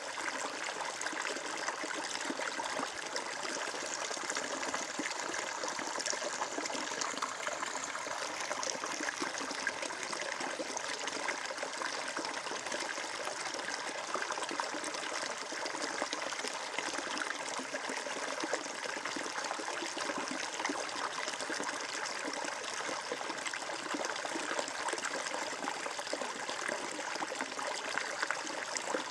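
Water flowing and trickling steadily, a stream running over stones with a constant splashing babble.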